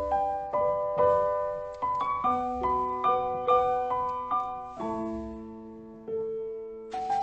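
Background piano music: a gentle melody of single notes about every half second, settling into a quieter held chord near the end.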